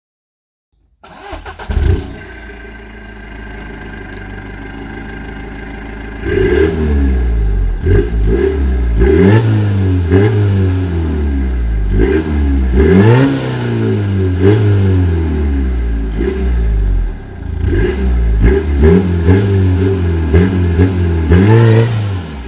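Seat Ibiza Bocanegra's 2.0 TDI four-cylinder turbodiesel with a straight-pipe exhaust starting up about a second in, idling for a few seconds, then revved over and over in short blips from about six seconds in, each rev rising and falling.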